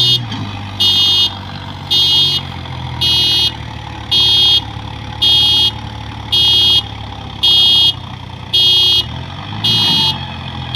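An electronic warning beeper sounds loudly about once a second, each beep about half a second long. Beneath it a diesel engine runs steadily.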